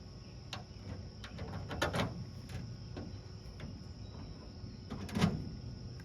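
Scattered light knocks and clatter from handling tools and parts, loudest about two seconds in and again about five seconds in, over a faint steady high-pitched tone.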